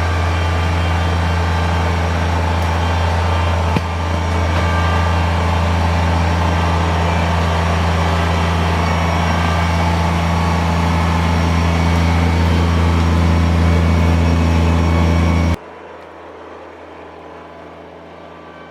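Kubota BX23S compact tractor's three-cylinder diesel engine running steadily. About fifteen and a half seconds in it cuts off abruptly, leaving a much quieter low hum.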